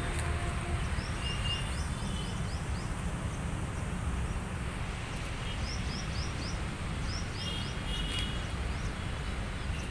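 Steady open-air noise with a low rumble, over which a bird gives two quick runs of short, rising chirps, the first about a second in and the second near the middle.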